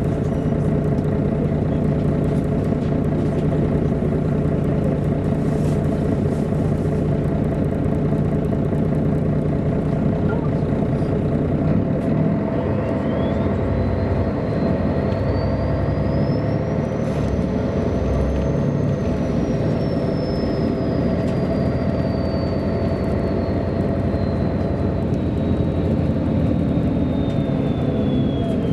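MAN A23 articulated city bus under way, its diesel engine running steadily. About twelve seconds in a thin high whine from the drivetrain sets in, rises in pitch for several seconds, then slowly falls.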